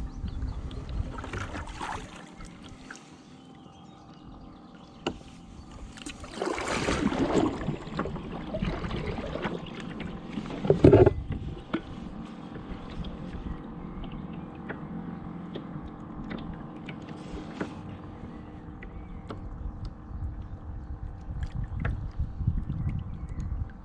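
Kayak on a lake: the paddle swishing and splashing in the water, with a sharp loud knock about eleven seconds in, over a low wind rumble on the microphone.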